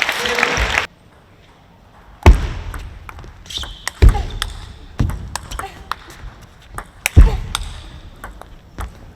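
Table tennis rally: the ball clicking off rackets and bouncing on the table roughly once a second, the sharpest hits landing with a deep thump, and a brief shoe squeak partway through. Crowd noise cuts off suddenly about a second in.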